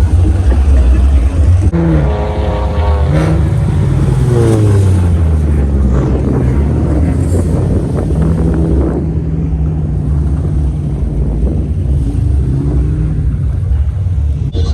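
Car engine revving, rising in pitch and falling back about two to five seconds in, then running at a steady pitch, over a heavy low rumble.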